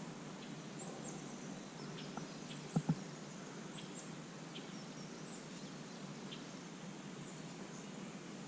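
Quiet outdoor creek ambience: a steady low rush, with short high bird chirps about once a second and two quick knocks close together about three seconds in.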